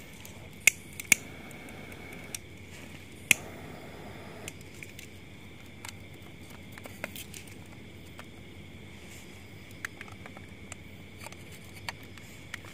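A lighter being struck to light incense sticks: sharp clicks, the loudest about a second in and again about three seconds in, each followed by a short hiss, then a few fainter ticks.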